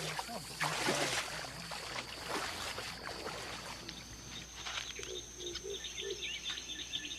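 Swamp ambience: a steady high insect drone, with water sloshing in the first second. Scattered bird chirps and a run of about four short low animal calls come in the second half.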